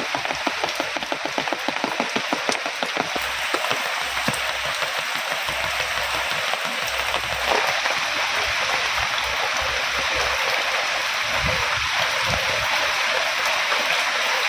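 Heavy rain falling in a steady, dense hiss. A quick run of sharp taps sounds over it in the first few seconds.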